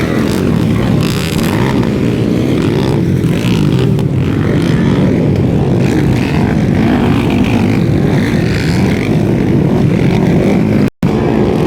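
Underbone motorcycle engines running hard as the bikes race, several engines overlapping into a dense, steady drone. The sound cuts out for an instant near the end.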